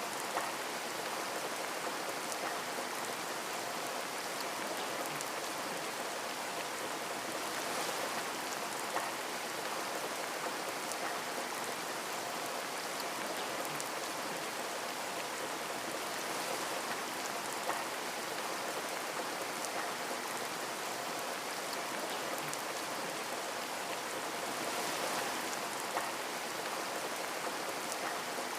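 Steady rain pattering on a window, an even hiss with individual drops ticking against the glass.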